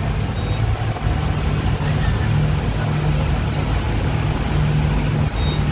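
Speedboat under way: its engines running with a steady low drone, under a constant rush of noise.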